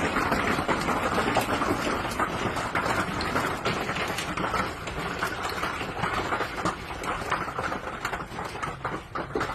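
Heavy storm rain pouring down in a dense, steady hiss, with many sharp ticks of impacts striking surfaces.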